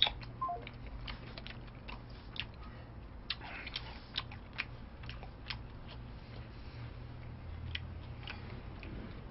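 A man chewing food with his mouth close to the microphone, with irregular short, sharp clicks and smacks; a low steady hum runs underneath.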